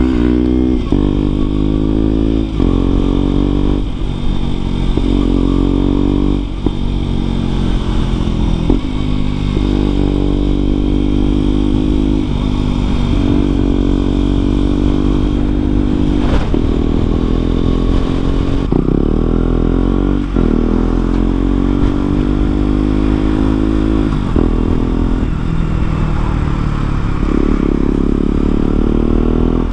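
KTM Duke 125's single-cylinder four-stroke engine, breathing through an aftermarket exhaust, accelerating hard. The engine note rises in pitch, then drops sharply every couple of seconds as it changes gear, over and over.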